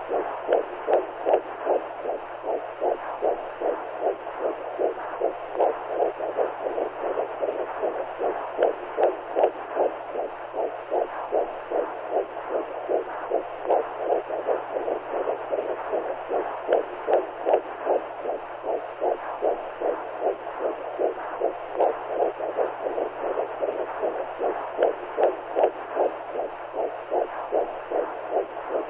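Womb sound for soothing a newborn: a heartbeat-like pulse of whooshing noise repeating at a steady, even rhythm over a constant low hum.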